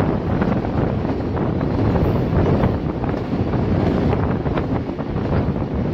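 Passenger train running at speed, heard from an open carriage window: wind buffeting the microphone over a steady low rumble from the train, with scattered light knocks.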